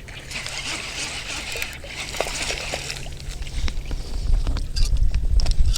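Strong wind buffeting the microphone, its low rumble growing heavier about halfway through, with light water sloshing and a few small clicks.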